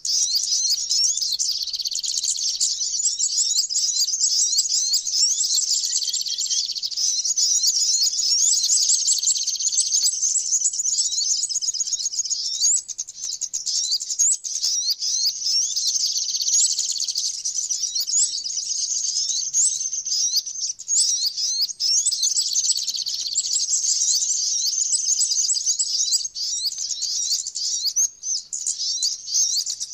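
Small songbirds, the flowerpecker (cabean) and sunbird (sogok ontong), singing: a dense, unbroken stream of rapid, high, thin chirps and twitters.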